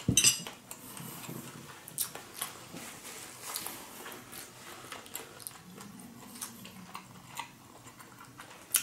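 Close-up chewing of octopus sushi: the octopus gives repeated small crunching crackles as it is bitten through, with a sharp click just after the start.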